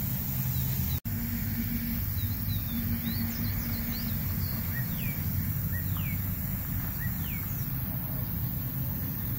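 Birds calling with a run of short, downward-sliding whistles and chirps over a steady low rumble. The sound cuts out for an instant about a second in.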